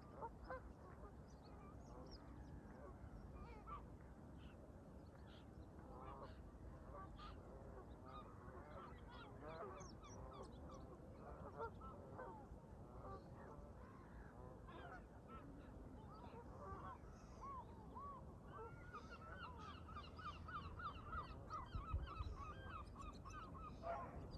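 A flock of Canada geese honking faintly, many overlapping calls, with a quicker run of honks near the end, over a low wind and water hiss.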